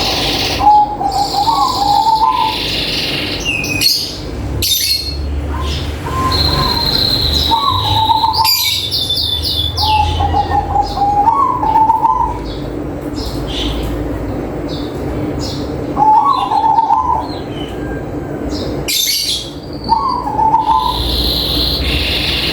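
Zebra dove (perkutut) cooing: short rolling coo phrases repeated every few seconds, with other small birds chirping higher up.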